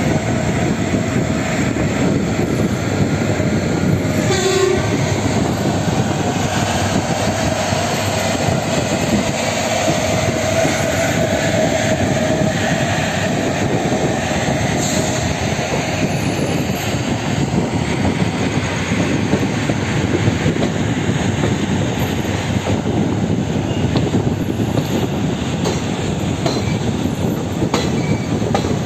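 Moving train heard from the open doorway of a coach: a continuous loud rumble and rattle of wheels on the rails. A brief horn note sounds about four and a half seconds in, and a drawn-out squeal of wheels on rail rises out of the running noise from about 8 to 14 seconds.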